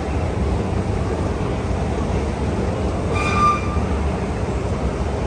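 KONE escalators running with a steady low mechanical rumble and hum. A brief high squeak sounds about three seconds in.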